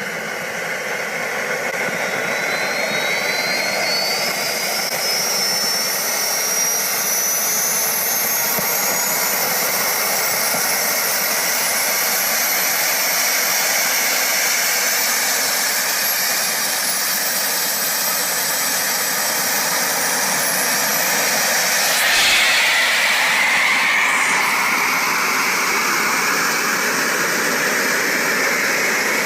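Twin small turbojet engines of a Colomban Cri-Cri jet spooling up for takeoff. A high whine climbs steadily in pitch over the first ten seconds or so, then the engines run at a steady loud level at high power, with a brief surge of noise about 22 seconds in.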